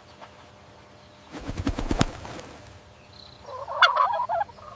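Turkey gobbling: two rattling gobble calls, the first about a second and a half in and the second, louder one near the end.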